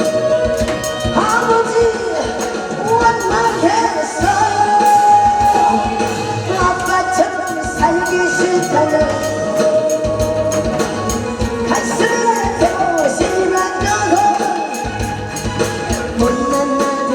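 A Korean trot song sung live over a loud backing track, with a steady beat and tambourine. The voice slides and wavers between notes.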